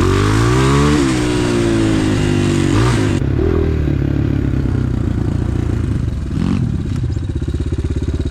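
Off-road enduro motorcycle engine revved hard, its pitch climbing over the first second and falling away, blipped again near three seconds, then dropping to a low, evenly pulsing idle.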